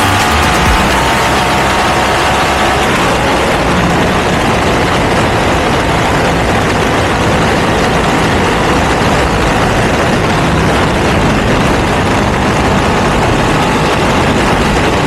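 Ducati V2 twin-cylinder engine through a Termignoni exhaust while the motorcycle is being ridden. The engine note falls over the first few seconds, under a loud, steady rushing noise.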